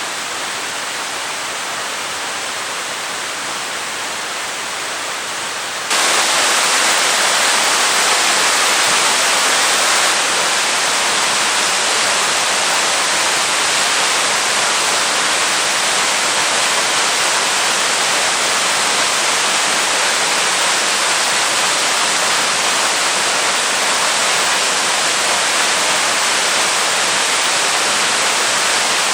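Flooded waterfall pouring into a pool: a loud, steady rush of water, which jumps louder about six seconds in and then holds steady.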